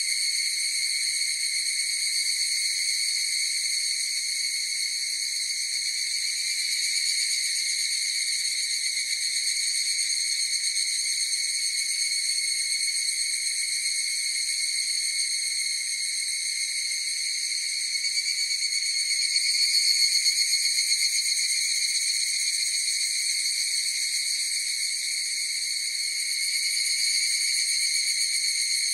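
A steady, unbroken insect chorus: one high, even pitched drone with overtones, swelling a little about two-thirds of the way through.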